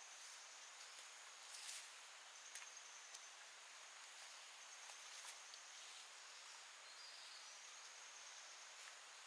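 Faint wild-forest ambience: a steady high-pitched insect drone over a soft hiss, with a few brief clicks or rustles.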